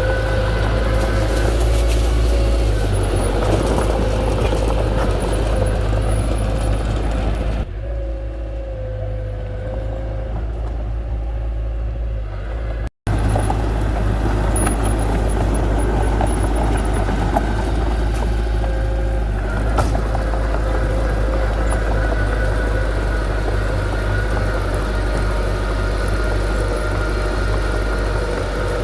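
Diesel engine of heavy earthmoving machinery running steadily, with the sound turning duller and quieter for a few seconds about seven seconds in and a split-second dropout near the middle.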